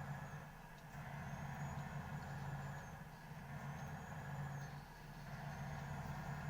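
Steady car engine and road hum heard inside the cabin while driving in rain, with a faint high squeak about every two seconds that fits windshield wipers sweeping across the glass.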